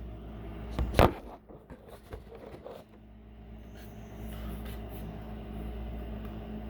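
Lego bricks being handled as a built model is worked off its stand: a sharp plastic click or knock about a second in, then a few smaller clicks and rattles, over a steady low hum.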